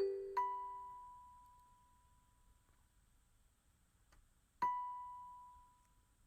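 Sparse electronic keyboard music with a bell-like tone: a single high note about half a second in and another near five seconds in, each ringing out slowly, with a near-empty gap between them.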